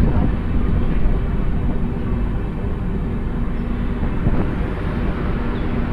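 Passenger express train rolling along a station platform: a steady rumble of wheels on rail, with a few faint clacks.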